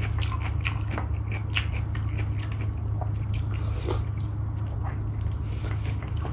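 Close-up mouth sounds of a person eating: chewing and biting, with many short wet clicks and smacks at irregular intervals, over a steady low hum.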